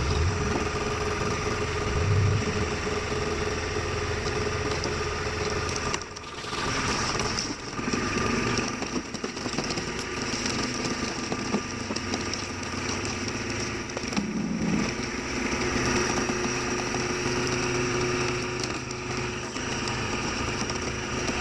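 Engine of a truck-mounted hydraulic wood splitter running steadily as it works, with a steady hum; the sound dips briefly about six seconds in.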